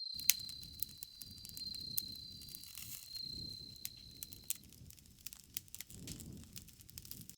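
Campfire crackling: irregular sharp pops and snaps of burning wood over a soft low rumble of flames that swells and fades. A thin, steady high tone runs along with it and stops about two-thirds of the way through.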